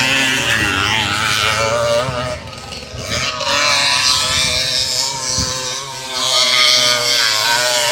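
Small 50cc two-stroke motocross bike engines running at high revs with a thin, buzzing note, their pitch rising and falling as the throttle opens and closes; the sound drops for about a second near the middle, then comes back up.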